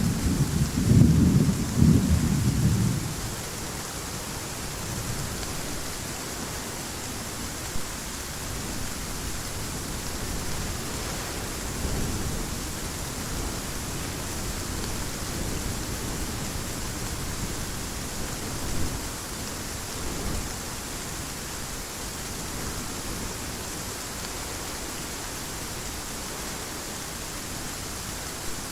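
Heavy rain falling in an even hiss, with a rolling rumble of thunder dying away in the first three seconds and a couple of faint low rumbles later on.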